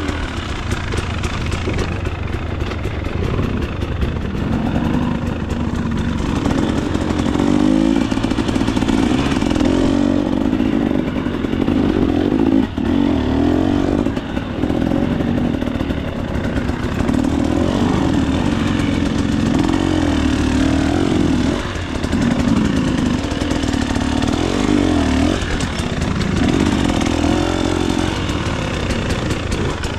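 Single-cylinder two-stroke engine of a KTM 300 XC-W dirt bike being ridden, its pitch rising and falling again and again as the throttle is worked, with the bike clattering over rough ground.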